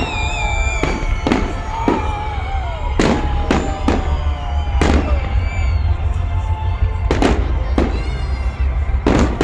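Fireworks salute: about ten bangs of shells bursting overhead at irregular intervals, with whistling tones gliding down in pitch between them.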